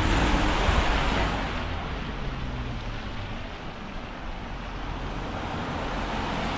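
Rushing traffic noise with a low rumble, loudest at the start, easing after about two seconds and then building again.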